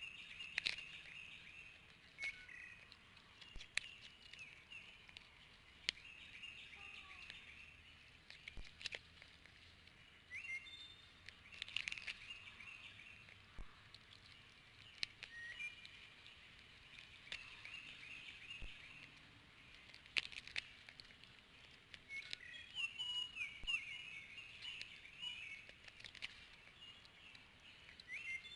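Outdoor bird calls: repeated bursts of short, high chirping notes, with sharp clicks now and then.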